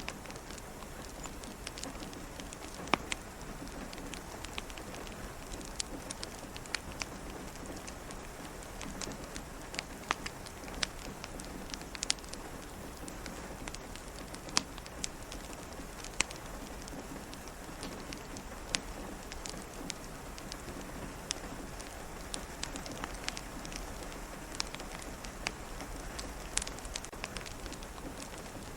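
Steady rain falling, with irregular sharp pops and crackles from a wood fire in a fireplace.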